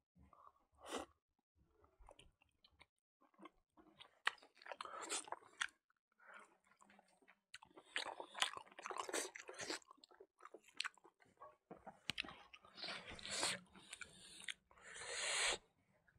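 Close-up mouth sounds of a person eating pork and rice: wet chewing, smacking and biting in short, irregular bursts with quiet gaps between bites, and a longer smooth noise near the end.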